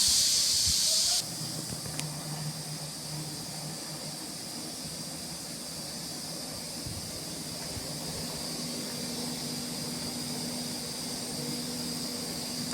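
Screw air compressor running, opening with a loud hiss of rushing air that cuts off after about a second and a half. It then settles into a steady machine hum with a high whine, and a lower tone joins about two-thirds of the way through.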